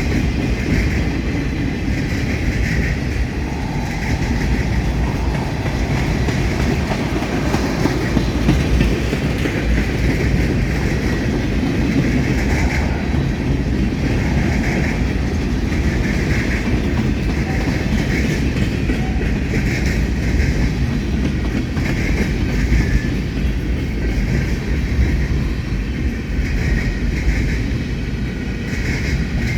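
Long freight train rolling past steadily, its wheels clacking rhythmically as they run over a railroad diamond crossing, under a continuous deep rumble.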